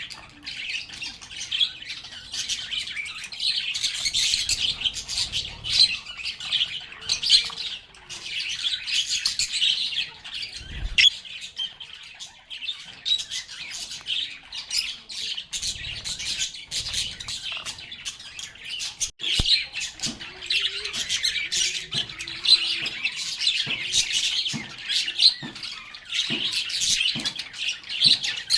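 A group of lovebirds chirping, chattering and squawking continuously in a dense, shrill stream of calls, easing off briefly about halfway through before picking up again.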